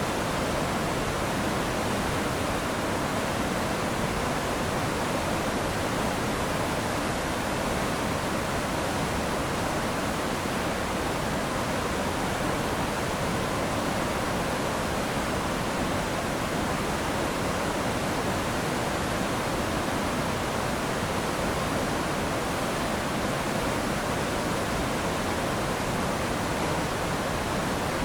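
Steady rush of water pouring through the dam's open shutters, an even, unbroken noise.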